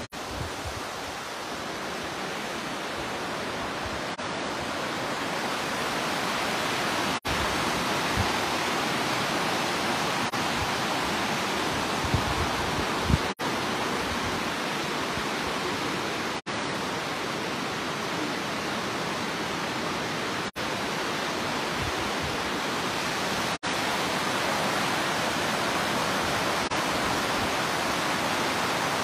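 Flood-swollen river rushing, a steady, even noise with brief dropouts every few seconds.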